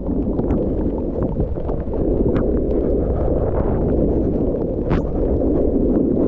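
Heavy wind buffeting the microphone: a steady low roar, with a few sharp clicks.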